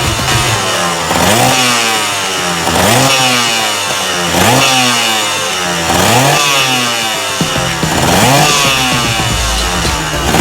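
Kawasaki KMX125 single-cylinder two-stroke engine being revved over and over, the revs rising and dropping back about every one and a half to two seconds.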